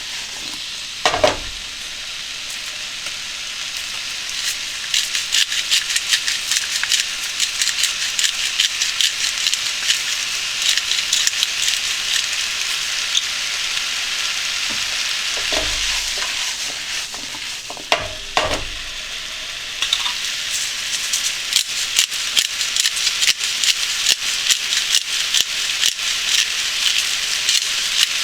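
Food sizzling and crackling as it fries in a pan over a gas flame, with a few dull knocks about a second in and twice more past the middle.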